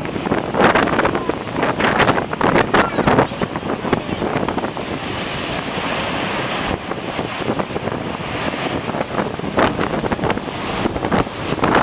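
Gale-force storm wind buffeting the microphone in gusts, with storm waves on Lake Erie breaking and washing against the breakwall. A steadier rushing spell of surf and spray comes around the middle.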